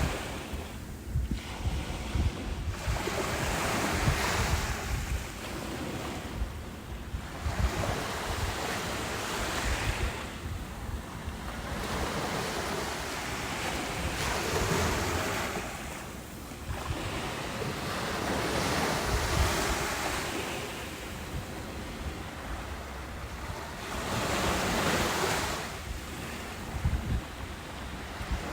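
Ocean waves breaking and washing up a beach, the surf swelling and ebbing every few seconds, with wind buffeting the microphone in low rumbles.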